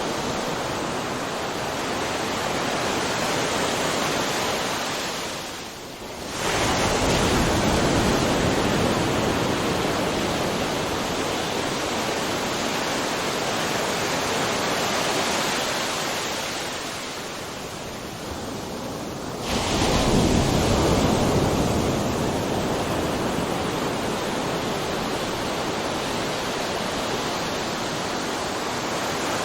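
Ocean surf: a continuous rush of breaking waves, swelling suddenly louder twice, about six seconds in and again just before twenty seconds, each time after a brief lull.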